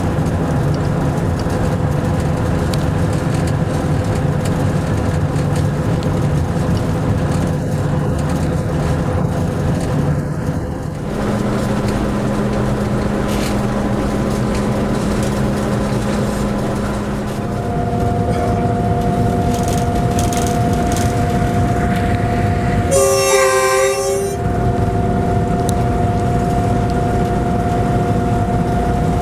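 Locomotive running, heard from inside the cab: a steady drone whose tones shift about eleven seconds in, with new steady tones joining a few seconds later. About two-thirds of the way through, the train horn sounds one blast of just over a second.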